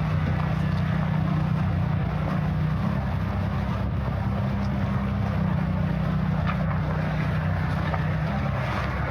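A steady low engine drone holding one pitch, with a even hiss above it.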